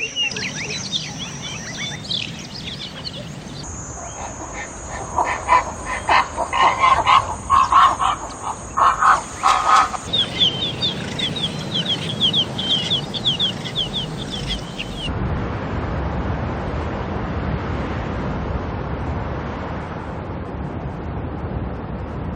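Forest ambience of bird calls and chirps, changing abruptly several times: whistled glides, then a rapid series of chirps, then a steady rushing noise for the last seven seconds or so.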